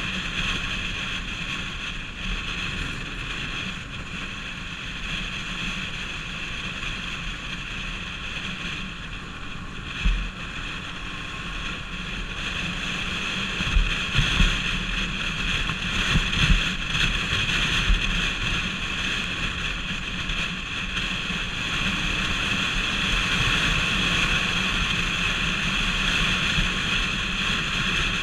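Bajaj Pulsar RS200's single-cylinder engine running steadily while riding, under heavy wind rush on the microphone. Several sharp wind thumps come about halfway through.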